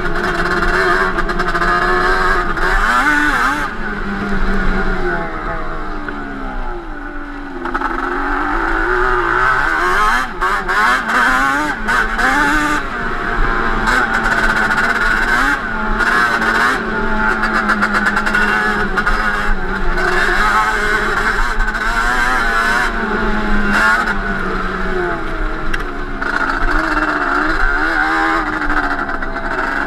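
Yamaha Banshee 350 parallel-twin two-stroke engine with Toomey T5 expansion pipes, revving up and down under riding load. It eases off and drops in pitch about four seconds in, then picks up and revs again.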